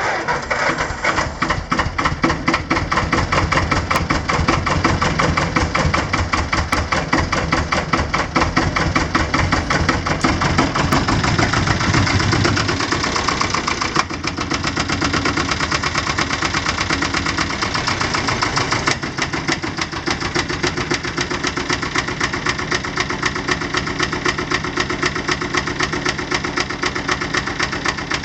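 Porsche AP18 tractor's air-cooled diesel engine running with a rapid, even knocking beat just after starting, easing a little in loudness about halfway through and settling to a steady idle.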